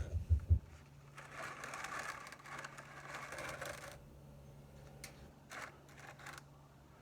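Light knocks and metallic clinks of hand tools being handled during a motorcycle oil change, with a faint hiss from about one to four seconds in.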